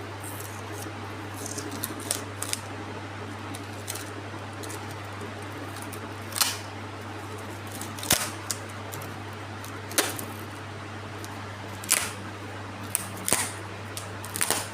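Scattered short clicks and rustles of small objects being handled, one every second or two, over a steady low hum.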